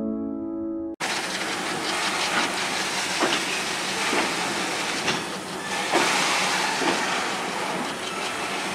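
Short piano music that cuts off about a second in, then a freight train's wagons rolling past: a steady rumbling hiss with clanks of the wheels over rail joints about once a second.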